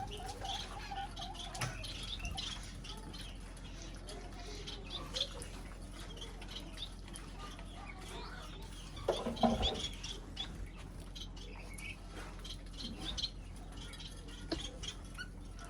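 Small cage birds, such as finches and budgies, chirping and twittering in many short, scattered calls. A louder, lower-pitched call stands out about nine seconds in.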